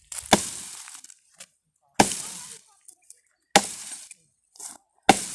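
Dry wood and brush struck hard four times, about every second and a half. Each blow is a sharp crack followed by a short crunching, splintering tail.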